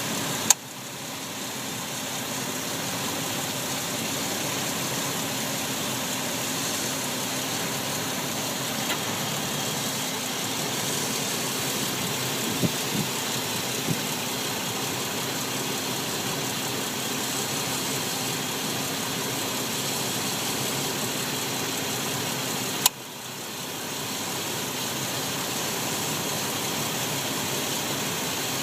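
2001 Ford Explorer idling steadily, with the click noise it is being recorded for: two sharp, loud clicks, one about half a second in and one near the end, and a few fainter clicks in the middle.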